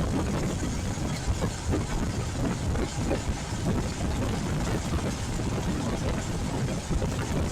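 Royal Enfield Classic 350 single-cylinder engine running while the bike is ridden, under a steady rushing wind and road noise.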